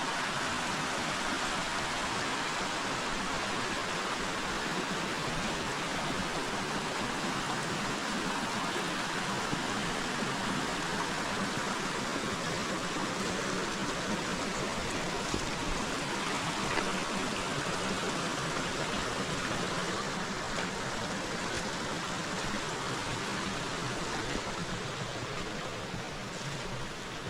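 River water flowing over rocks: a steady rush of moving water that eases slightly near the end.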